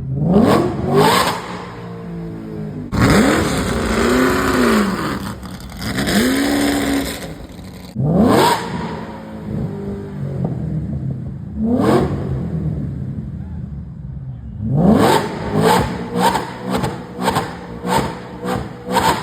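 Ford V8 engine being revved in repeated throttle blips, each a quick rise in pitch that falls back. A few seconds in comes a longer rev with loud hissing noise over it, and near the end a fast run of short blips, about two a second.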